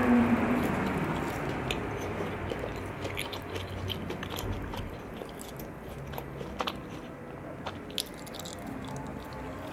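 Close-miked chewing of sweets: steady wet mouth sounds with scattered small crunches and clicks, loudest at the start and settling after about a second.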